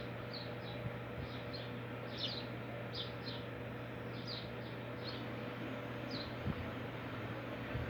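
A small bird gives short, high chirps every half second or so over a steady rushing noise, likely the river flowing after the rain.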